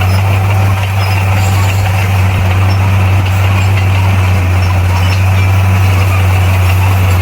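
Bulldozer's diesel engine running at a steady, unchanging speed, a loud low drone with no revving.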